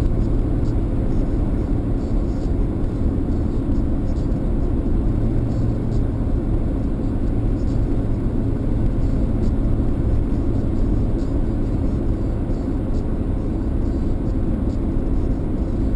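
Steady car road and engine noise heard from inside the cabin while driving at an even speed, a low hum with no changes in pitch.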